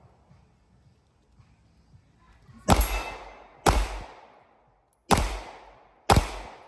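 Four handgun shots, about a second apart, starting near the middle. Each is a sharp crack that echoes out in a long fading tail.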